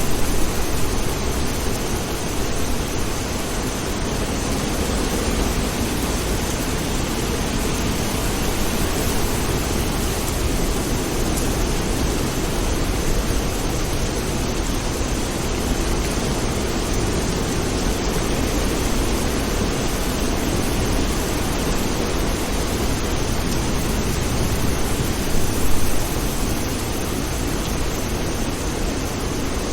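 Steady rain hissing, with a low rumble underneath and a brief louder swell near the end.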